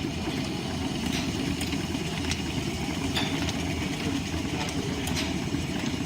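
Line-shaft-driven wood lathe and its overhead shafting and flat belts running steadily, with a light click about once a second.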